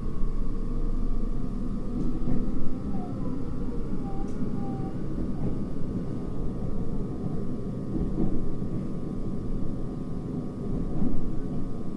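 Running sound of a JR Hokkaido 733 series electric multiple unit heard from inside the car: a steady rumble of the wheels on the rails, with a faint steady whine above it.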